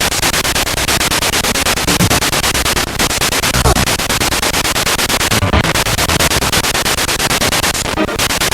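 Spirit box sweeping through radio stations: loud static chopped into rapid pulses, about ten a second, with short snatches of broadcast sound caught between them.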